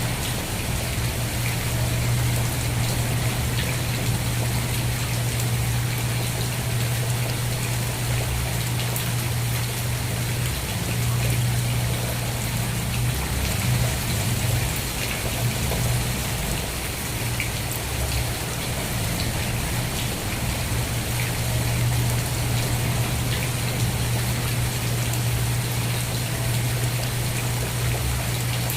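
Steady rain falling, with scattered individual drops ticking over an even hiss and a continuous low rumble underneath.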